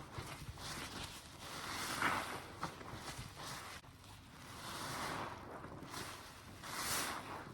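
Soapy car-wash sponge squeezed by hand several times, each squeeze a wet, squelching rush of sound lasting about a second.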